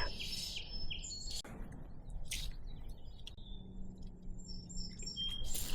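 Songbirds calling: a run of short, high chirps and falling whistled notes, with a couple of soft knocks in between.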